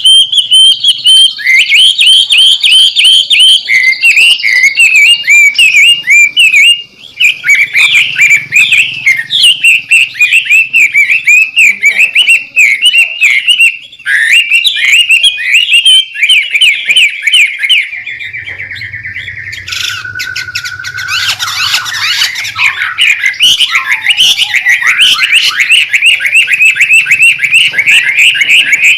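White-rumped shama (murai batu) singing a loud, rapid, rowdy run of chattering notes, broken by two short pauses, with a steadier trill past the middle and a harsh, noisy stretch after it.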